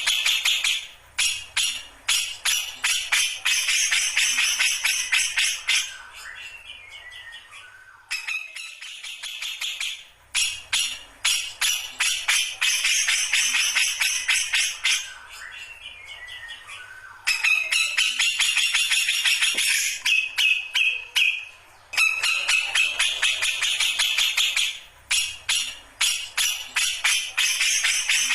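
Brown-cheeked bulbul (cucak jenggot) singing: long runs of very fast, scratchy chattering several seconds each, each led in by a short string of falling whistled notes, with brief pauses between runs.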